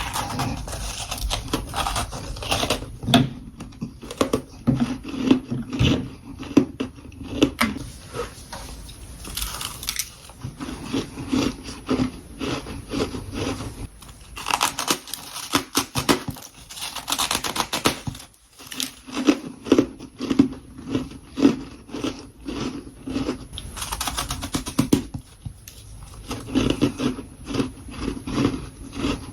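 Close-miked biting and chewing of freezer frost: a dense run of crisp crunches and crackles over a steady chewing rhythm, broken by a few longer rasping crunches.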